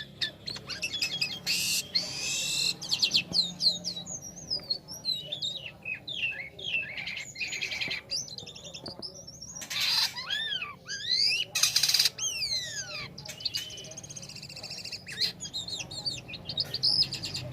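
Jalak kapas starling singing a long, varied song: quick whistled notes and sweeping upward and downward slurs, broken by several loud harsh rasping notes.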